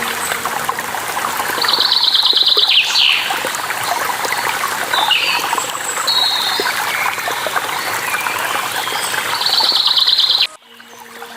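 Running water of a stream or waterfall with small birds chirping over it, including a fast trill of quickly repeated notes twice. Near the end the water sound cuts off abruptly, then fades back in.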